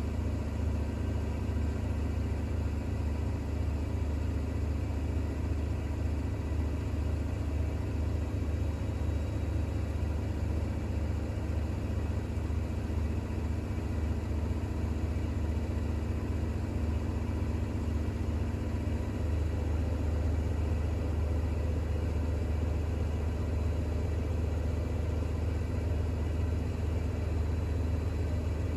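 Bosch WAX32GH1 front-loading washing machine in its intermediate spin with an unbalanced towel load, running at a steady speed with a steady low hum.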